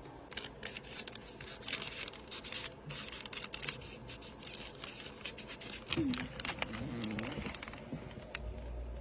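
A run of quick, irregular scratching and rustling sounds, like paper or fabric being handled close to the microphone, then a short murmured voice sound. Near the end, a low steady hum comes in.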